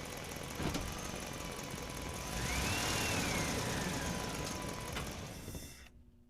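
Radio-controlled toy excavator running with an engine-like drone, a single knock about a second in and a whine that rises and falls in the middle, then cutting off shortly before the end.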